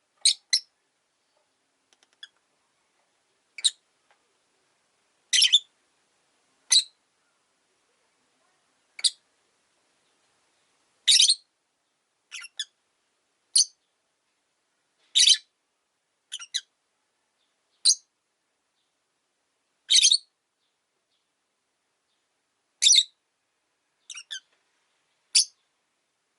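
Rosy-faced lovebird giving short, sharp, high-pitched chirps, one every second or two with silent gaps between.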